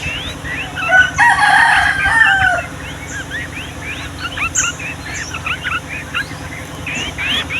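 Yellow-vented bulbuls (trucukan) chirping in a quick run of short rising notes, with a rooster crowing once, loudly, from about a second in and dropping in pitch at the end of the crow.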